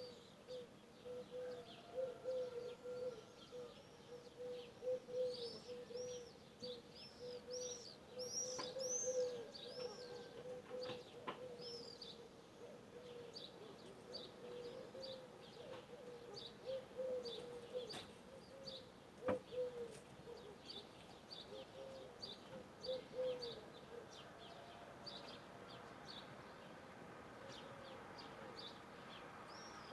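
Wild birds singing in a morning chorus: quick, high, repeated chirps over a lower wavering note that runs throughout.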